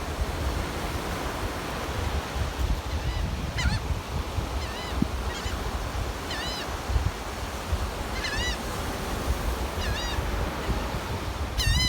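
Seagulls calling: short, arched squawks repeated every second or two from a few seconds in, with a quick cluster of calls near the end, over a continuous low rumble of surf.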